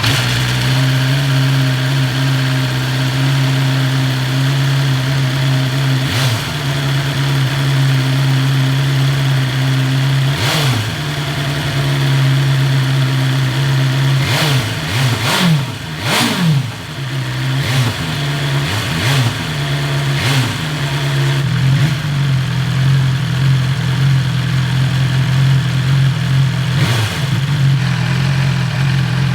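BMW S 1000 XR's inline-four engine idling through its stock exhaust, blipped to revs and back about nine times. The blips are short, several coming in quick succession around the middle.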